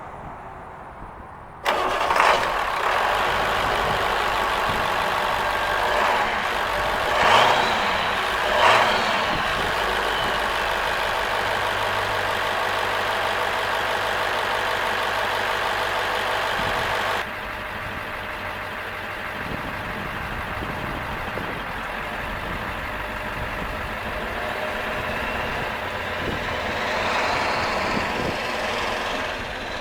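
International T444E V8 turbo diesel in a school bus's engine bay, running. It gets suddenly louder about two seconds in, surges briefly three times, then drops to a quieter steady run about two-thirds of the way through.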